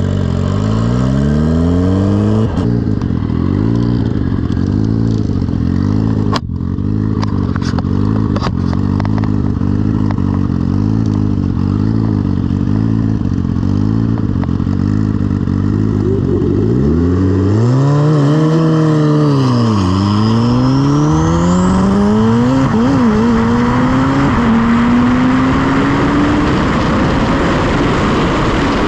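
Turbocharged Suzuki Hayabusa 1300 engine running with a pulsing, uneven idle, with a sharp click about six seconds in. About seventeen seconds in it launches at full throttle and pulls hard through the gears, the revs climbing and dropping at each shift, with a high rising whistle from the turbo.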